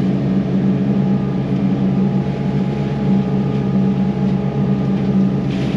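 Yanmar SV100 excavator's diesel engine running at a steady speed, an even mechanical drone.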